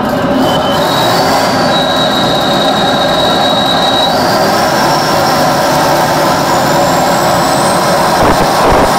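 Homemade jet engine built from workshop parts running with a loud, steady roar. A thin high whine sits over it, shifting in pitch early on and climbing slowly through the second half.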